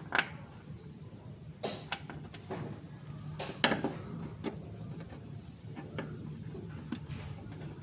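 Metal tools or parts clinking and knocking a few times during hand work on the car, over a steady low hum; the loudest knocks come near the start and a quick pair about three and a half seconds in.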